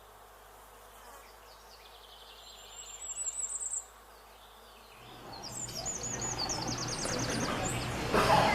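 A small songbird singing high, rapid wavering trills in two short phrases. From about halfway through, a rising background noise and a steady low hum come in, with a louder burst of noise near the end.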